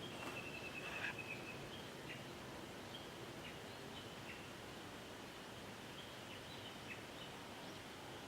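Wild birds calling: a rapid trill of short high notes about a second in, then scattered short chirps, over a faint steady high-pitched background.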